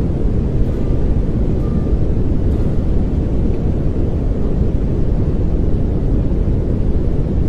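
Pink noise played as a steady relaxation sound: an even, deep rushing hiss, heaviest in the low end and fading toward the highs, with no change in level.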